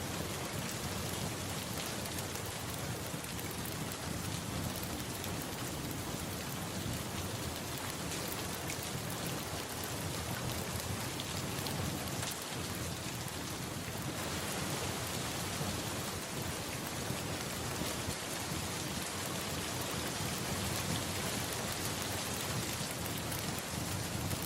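Steady rain falling, an even unbroken hiss with no single loud event standing out.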